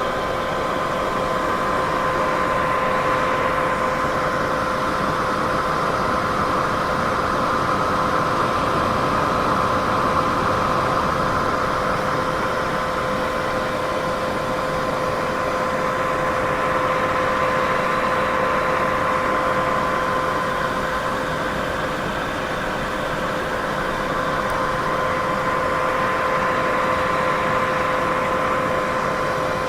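Steady white noise for sleep: an even hiss, fullest in the middle range, with two faint steady hum tones running through it and a slow, gentle swell in loudness.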